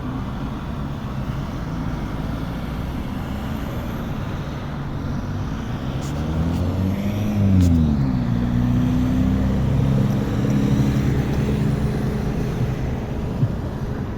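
Road traffic heard from a bicycle: a motor vehicle passes close about halfway through, its engine note rising then dropping and holding steady, over a constant low rumble of wind and road noise.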